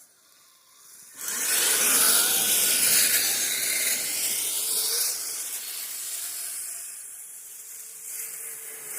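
Radio-controlled snow vehicle driving hard, starting about a second in: a motor whine that slides up and down in pitch over a loud hiss, easing after about five seconds.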